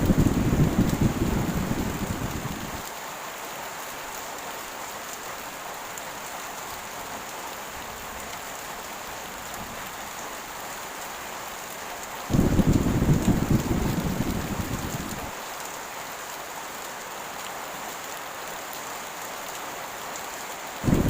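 Heavy rain falling steadily, with two deep thunder rumbles. One comes at the start and one about twelve seconds in; each starts suddenly and dies away over about three seconds.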